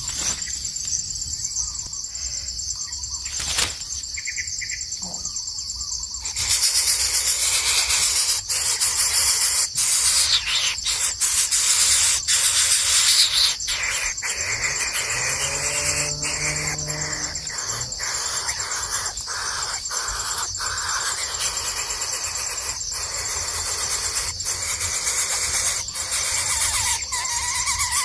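A steady high-pitched insect chorus, with scattered clicks and a louder hiss from about six seconds in. A short low call sounds about halfway through.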